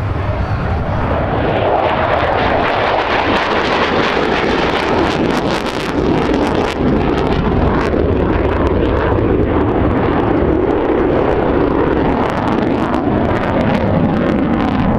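Jet noise from a J-11BS fighter's twin turbofan engines during a flight display: a loud, steady jet roar with a crackling edge, swelling over the first second and slowly deepening in pitch as the jet passes.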